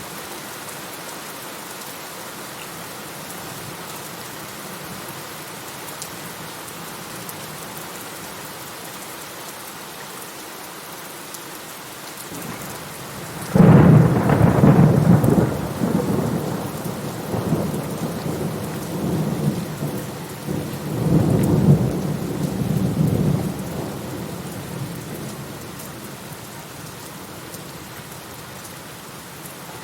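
Steady rain falling, with a sudden clap of thunder about halfway through that rumbles on for about ten seconds, swelling once more before it fades back under the rain.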